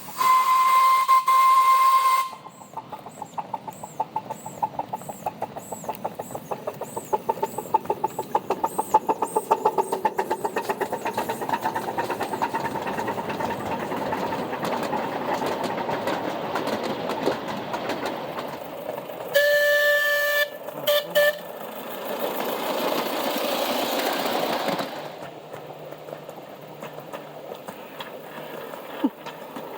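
Miniature 7.5-inch gauge live steam locomotive sounding a short whistle blast, then chuffing as it pulls away, the exhaust beats coming faster as it picks up speed. Near two-thirds of the way through it sounds a chime whistle, one longer blast and two short toots, followed by a few seconds of steady hiss.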